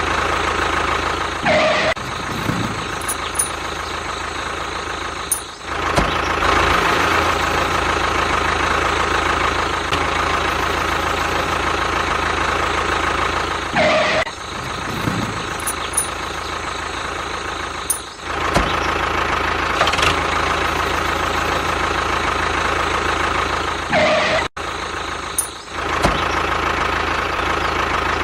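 Mini tractor's engine running steadily. A brief rising tone cuts in three times.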